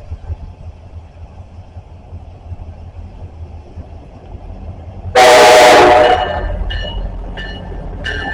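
Low rumble of an approaching train, then a train horn sounds one loud blast of about a second, about five seconds in. A bell then rings in steady strokes, about one and a half a second.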